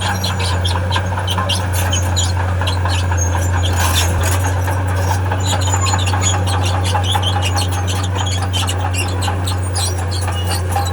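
Tracked diesel earthmoving machine running steadily with a low engine hum, its steel tracks giving off a dense run of short squeaks and squeals as it moves.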